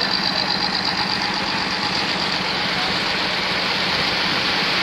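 Boat engine running steadily with a constant low hum under a dense, even noise.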